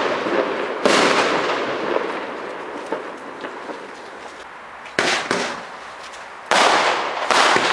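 Consumer fireworks going off: sharp bangs about a second in, at about five seconds, and twice near the end, each trailing off in a crackling, rumbling decay.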